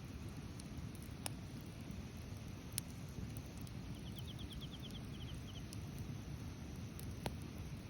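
Wood fire burning in a fire pit: a steady low rumble with a few sharp crackling pops. Just past the middle comes a brief high, rapid trill of about a dozen notes.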